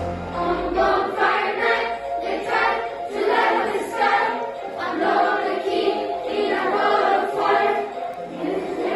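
A group of voices singing a song together over backing music, with a steady beat.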